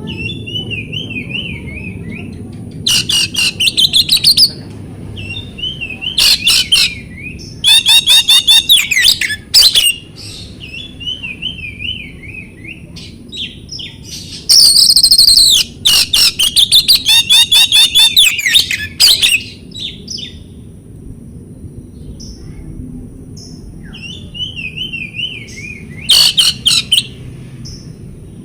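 Oriental magpie-robin (kacer) singing a lure song: wavering whistled phrases alternating with loud bursts of rapid, harsh repeated notes, the longest burst in the middle lasting about four seconds.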